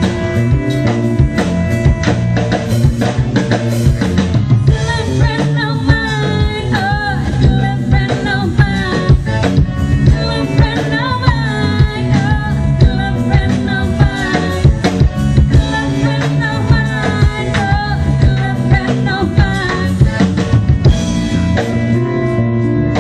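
Live pop-rock band playing: drum kit, bass, guitar and keyboard, with the lead vocalist singing through most of the middle. The singing drops out near the end while the band plays on.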